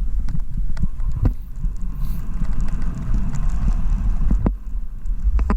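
Skis running fast through powder and tracked snow, a steady hiss with a few sharp knocks, under a heavy low rumble of wind buffeting the microphone.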